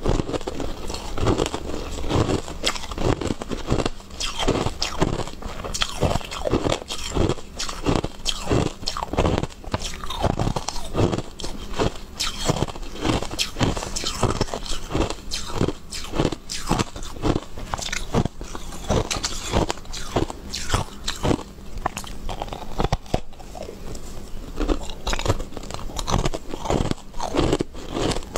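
Close-up biting and chewing of hard, crunchy white balls: a steady run of sharp crunches, about one or two a second, with wet mouth sounds between them.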